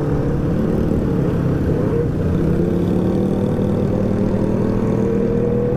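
Motorcycle engine running while riding, its note slowly rising in pitch, over a steady rush of wind and road noise.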